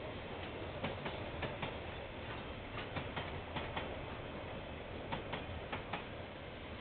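Train wagons rolling past, their wheels clicking over rail joints, often in quick pairs, over a steady rumble. Heard through a security camera's microphone, which dulls the sound.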